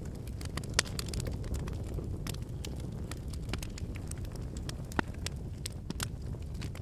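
Wood campfire burning: a steady low rush of flames with frequent small crackles and pops from the burning wood, two sharper pops just under a second in and about five seconds in.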